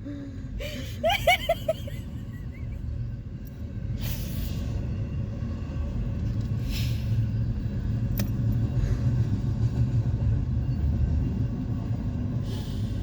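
Low steady rumble of a passing train heard through an open car window, growing louder about four seconds in. Near the start a person makes a brief wavering, sing-song vocal noise.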